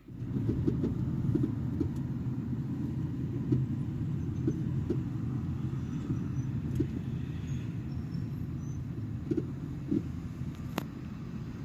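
A car driving: a steady low rumble of engine and road noise, with a few small knocks and clicks.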